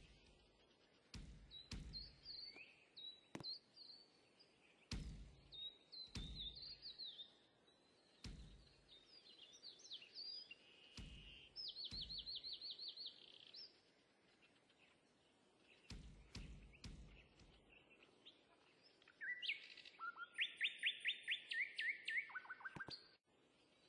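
Small birds chirping and singing, with a fast trill around the middle and a louder, longer trill near the end. Soft low thumps come every second or two underneath.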